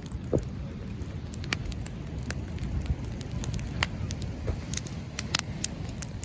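Large wood bonfire crackling, with sharp pops scattered irregularly over a steady low rumble.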